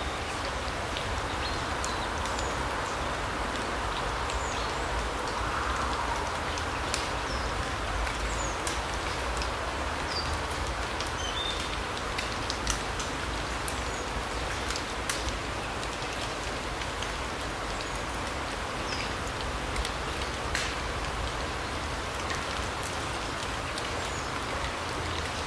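Autumn larch-forest ambience: a steady rushing hiss with scattered light ticks, like drops pattering through the trees. A few short, high bird calls come through here and there.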